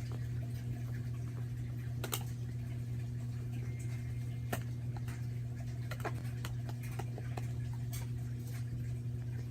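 Hands mixing and kneading slime, making scattered sticky clicks and small pops, over a steady low hum.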